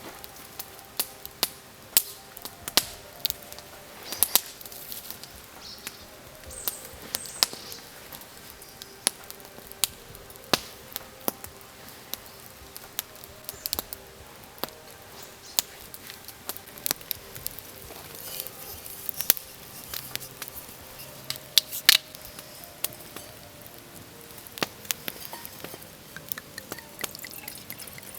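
Irregular sharp clicks and light taps, several a second at times, over a faint steady background.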